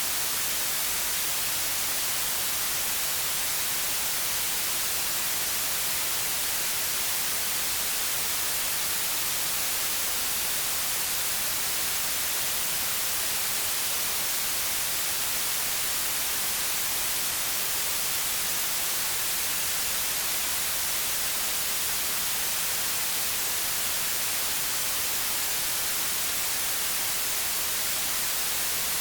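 White noise: a steady, even hiss, strongest in the high treble.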